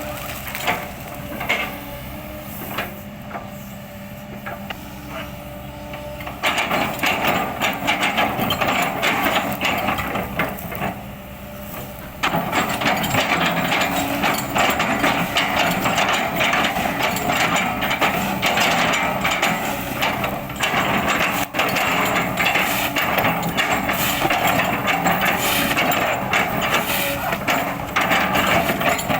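Kobelco excavator at work chipping an oil palm trunk: the engine runs under load while the bucket chops and crushes the wood, with dense crackling and splintering. Quieter at first, it grows much louder about six seconds in and again about twelve seconds in.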